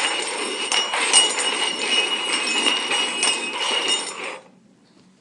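Cups and a small hidden toy being shuffled quickly on a hard surface, a busy rattling and clinking with some bright ringing, which stops abruptly about four seconds in.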